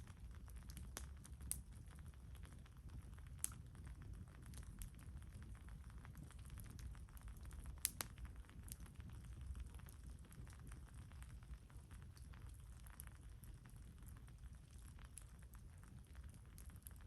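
Wood campfire crackling faintly, with scattered small pops and two sharper snaps, about three and a half and eight seconds in, over a low steady rumble.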